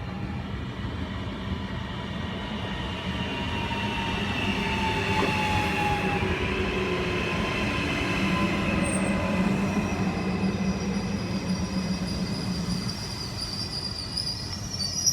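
Train running through a railway station: a steady low rumble with whining tones that glide down in pitch, then a high-pitched wheel or brake squeal coming in about ten seconds in and growing louder near the end.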